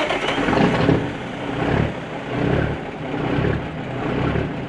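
Kenworth W900A dump truck's diesel engine on a warm start, running with uneven surges about once a second. It chugs, which the owner puts down to a dirty injector from sitting.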